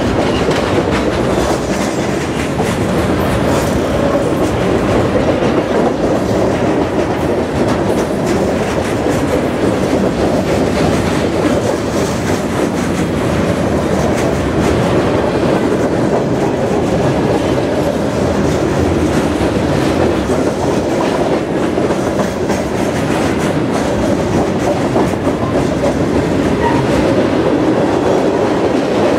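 Freight train's steel gondola cars rolling past close by: a steady, continuous rumble of steel wheels on the rails.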